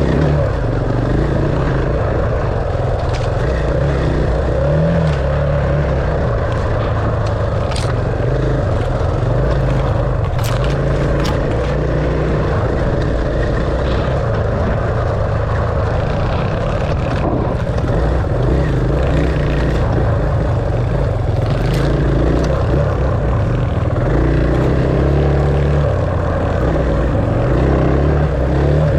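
Dirt bike engine running under way, its pitch shifting up and down as the rider works the throttle, with a few short sharp clicks.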